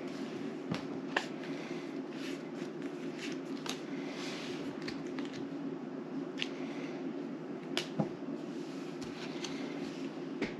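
Playing cards being handled and laid down on a table: scattered soft clicks and snaps, about one every second or two, over a steady low hum.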